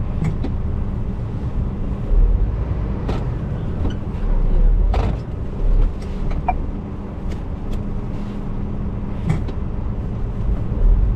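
Lorry diesel engine running steadily, with a few heavier low surges and several sharp knocks and clunks. The truck is working against a loaded skeleton trailer whose locking pin is jammed under pressure from the chassis.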